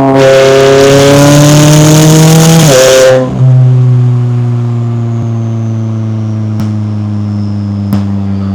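McLaren 570S twin-turbo V8 exhaust under hard acceleration for about three seconds, its pitch slowly climbing with a harsh rasp on top. After a brief break just past three seconds it comes back loud, then settles into a steadier, quieter drone, with two or three sharp pops near the end.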